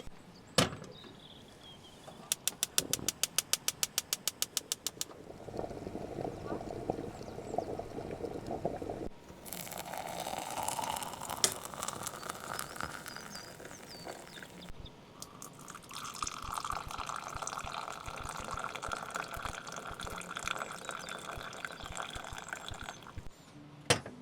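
A quick run of clicks, about seven a second for a few seconds, then liquid being poured, filling a vessel with a rising pitch, in several separate stretches.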